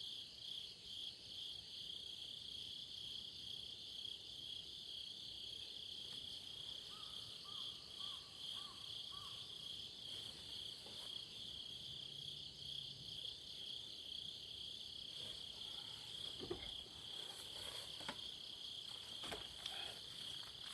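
Crickets trilling in a steady, pulsing chorus, with a few faint clicks near the end.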